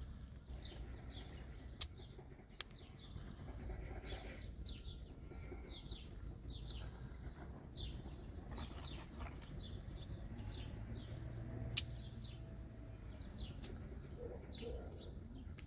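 Small birds chirping in short, repeated calls, with two sharp clicks, one about two seconds in and one near twelve seconds.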